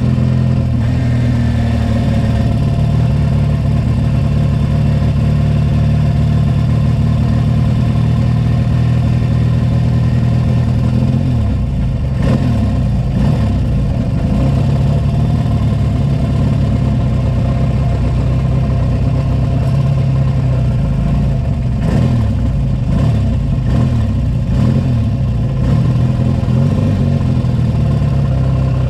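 Racing sidecar outfit's engine running at low revs close to the microphone while rolling slowly, with the engine note wavering as the throttle is eased and opened a couple of times, around the middle and again a few seconds later.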